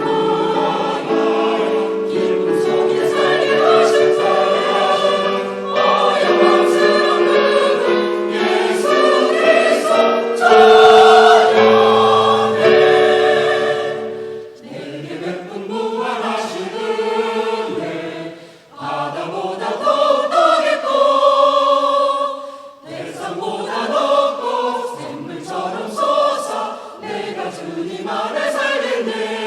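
A parish church choir singing a sacred piece as background music. Long held notes carry the first half, and the voices move more freely after about halfway.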